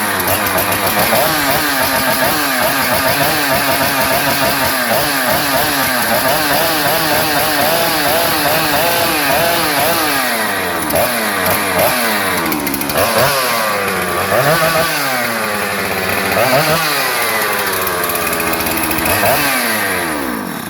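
Husqvarna 3120XP two-stroke chainsaw engine running after a top-end rebuild with a new piston and gaskets, its speed wavering. In the second half it is revved up and down several times, and it cuts off at the end.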